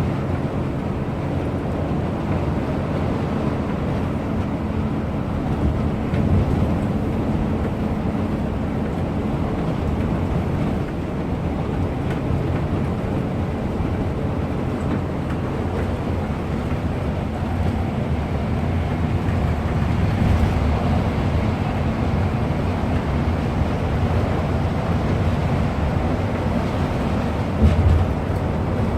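Bus engine running steadily on the road with tyre and road noise, a continuous low drone. There is a brief thump just before the end.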